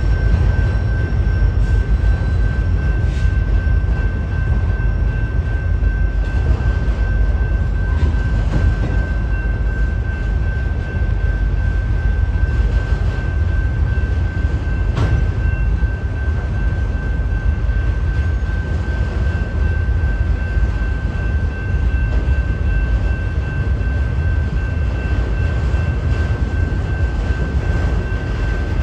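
Freight train of autorack cars rolling past: a loud, steady low rumble of wheels on rail, with a thin, steady high-pitched tone over it and a few sharp clanks.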